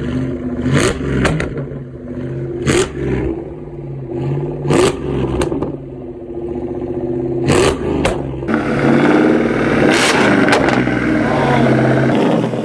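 A performance car engine idling and revving, with about ten sharp, loud pops cracking out of the exhaust.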